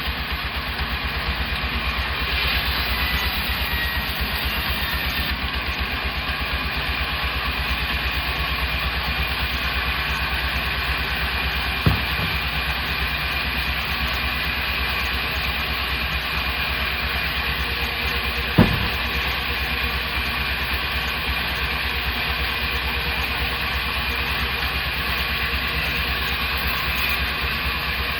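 Sawmill machinery running steadily with a pulsing low engine rumble, and two sharp knocks, one about twelve seconds in and another about six seconds later.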